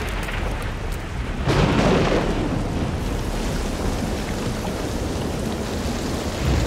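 Heavy rain falling steadily, with a rumble of thunder swelling up about one and a half seconds in.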